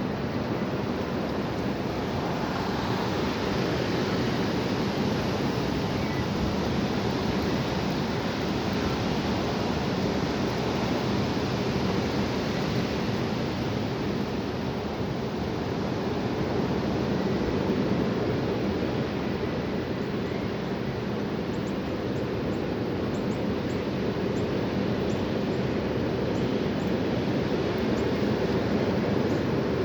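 High wind blowing outdoors: a steady rushing noise that swells and eases gently.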